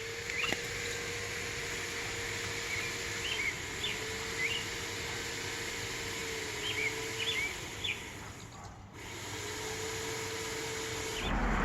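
Small birds chirping: short, quick, high chirps in small clusters, over a steady outdoor hiss and a steady hum that stops and starts again a few times.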